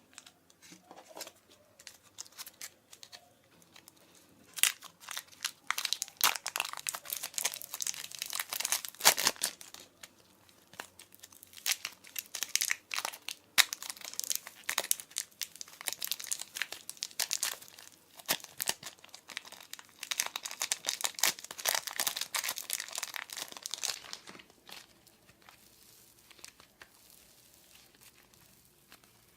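Glossy slime being worked by hand, giving dense sticky crackling clicks. The crackling sets in a few seconds in and dies away with about five seconds left.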